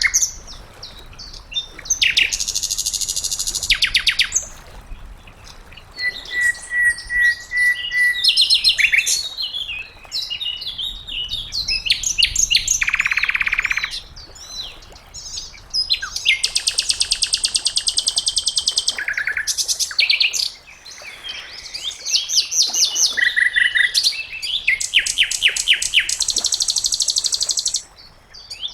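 Sikatan londo (a flycatcher) singing: a long, varied, high-pitched song of fast trills and rapid chattering phrases, each lasting a second or a few seconds with short pauses between them.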